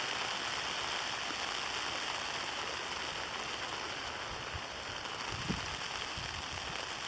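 Heavy sleet and graupel coming down: a dense, steady hiss of ice pellets pattering on surfaces, with a brief low rumble about five and a half seconds in.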